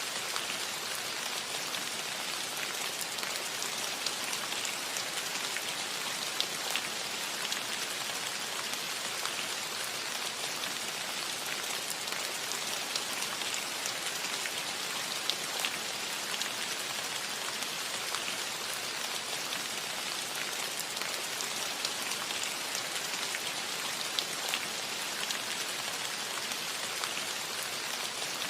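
Steady rain falling on a metal roof, an even hiss with many small drop ticks scattered through it.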